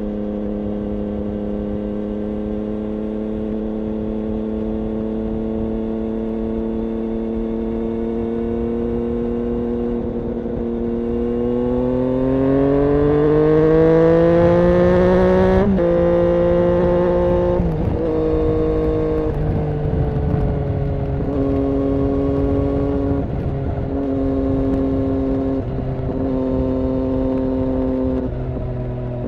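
Triumph Daytona 675's three-cylinder engine through an IXIL aftermarket exhaust. The engine runs steadily with its pitch slowly creeping up, then revs hard about twelve seconds in and drops sharply in pitch near the middle. It then holds a series of steady engine speeds that change abruptly every couple of seconds.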